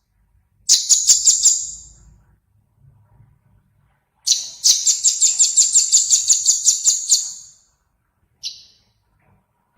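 A small songbird calling in high, rapid chirps. A short burst comes about a second in, then a longer run of about five or six notes a second lasting around three seconds, and a single short chirp near the end.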